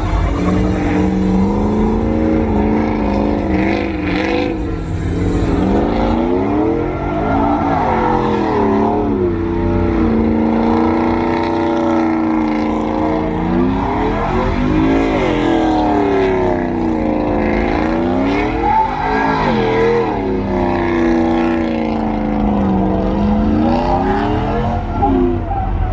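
A truck engine revving up and down over and over, its pitch rising and falling several times over a constant deep rumble.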